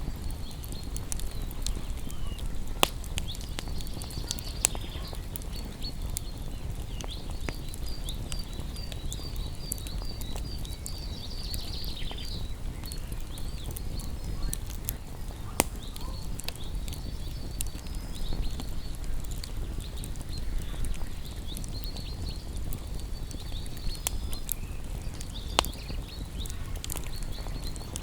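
Campfire burning: wood crackling with scattered sharp pops over a low steady rumble of flames, and faint high chirping in the background.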